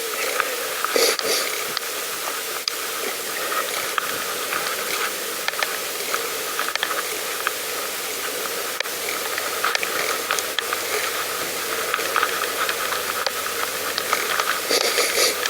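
Steady hiss of a pedal bike on the move, tyres running along the path with air rushing past, and scattered light clicks and rattles.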